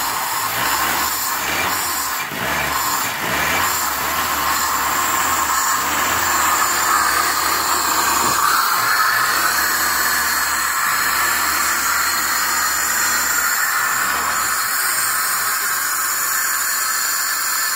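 Moskvich 2140's engine, newly converted to fuel injection, running just after a start, with a loud steady hiss over an uneven low throb; the throb fades in the last few seconds.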